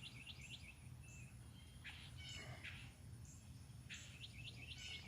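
Small songbirds chirping faintly: a quick run of short high notes at the start and again about four seconds in, with scattered single calls between.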